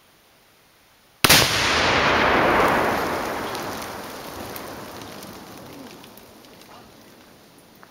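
A one-pound Tannerite exploding target detonating from a rifle hit: one sudden loud blast about a second in, followed by a long noisy tail that fades away over about five seconds, with a few faint ticks near the end.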